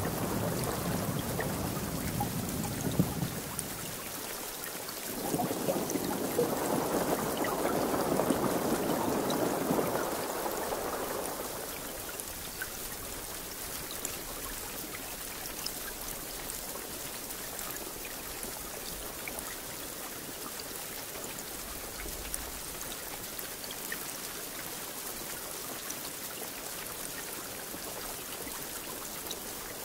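Steady rain falling, a constant hiss with scattered drop ticks. A low rumble of thunder dies away about four seconds in, and a louder rushing swell follows from about five to eleven seconds before the rain settles back to an even hiss.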